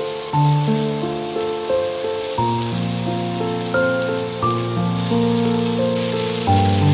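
Chicken strips sizzling with a steady hiss in a hot non-stick frying pan as they are stir-fried over very high heat, under background music with clear held notes.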